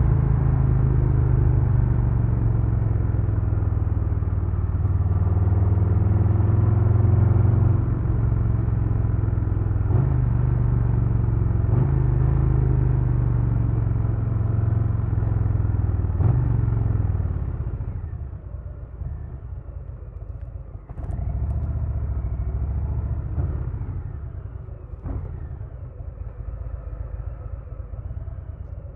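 2022 Harley-Davidson Low Rider S's Milwaukee-Eight V-twin under way, pulling hard with its pitch climbing and shifting up about 8, 10, 12 and 16 seconds in. After about 18 seconds it drops back to a quieter, lighter-throttle run, with a short burst of throttle a few seconds later.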